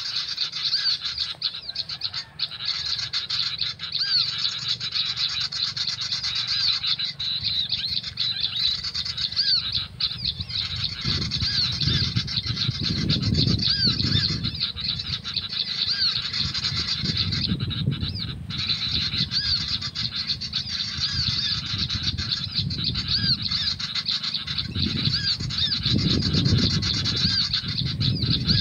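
A recorded bird call played from an MP3 player as a trapping lure: the same short arched chirp repeated quickly over and over without a break. From about eleven seconds in, a low rushing noise swells and fades underneath it.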